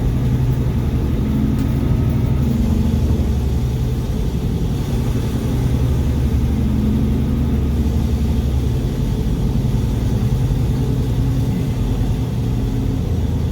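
Mack truck's diesel engine running steadily while driving, a low even drone that wavers slightly in pitch.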